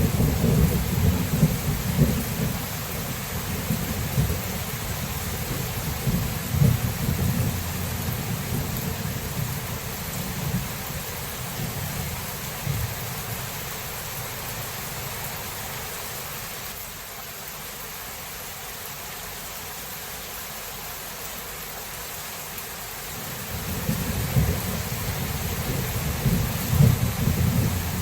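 Thunderstorm: steady rain hiss with rolling thunder. A long low rumble dies away about ten seconds in, leaving the rain alone, and a fresh rumble of thunder builds up about twenty-four seconds in.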